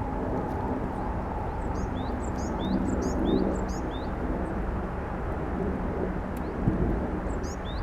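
A small bird chirping: a run of short, high, upward-flicking notes about two seconds in, and again near the end. Under it is a steady low hum.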